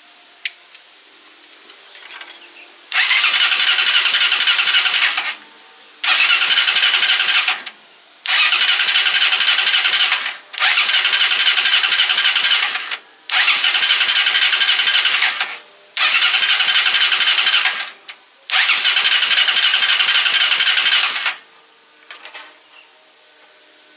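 A motor tricycle's engine being cranked by its starter in seven bursts of about two seconds each, stopping sharply between tries and never catching.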